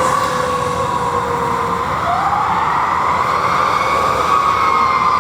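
Emergency vehicle siren in a slow wail: the pitch falls slowly, swings back up about two seconds in, then falls slowly again, over steady traffic noise.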